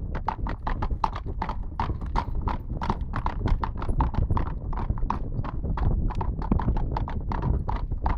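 Hooves of a horse-drawn carriage team clip-clopping at a quick, steady pace, about five or six strikes a second, over a steady low rumble.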